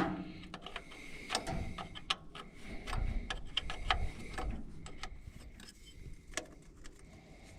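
A wrench loosening a hydraulic line fitting on an old tractor: irregular metallic clicks and clinks of the tool on the fitting.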